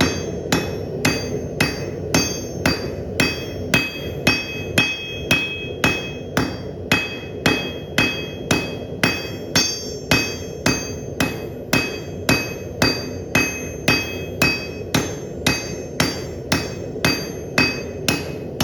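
Blacksmith's hammer striking steel on an anvil at a steady pace of about two blows a second, each blow ringing, over a constant low hum.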